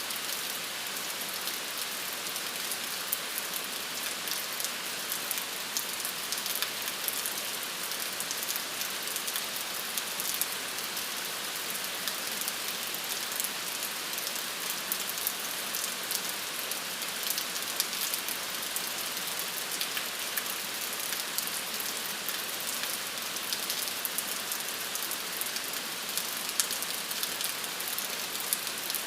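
Steady rain falling on a surface, a continuous hiss with many small drop patters.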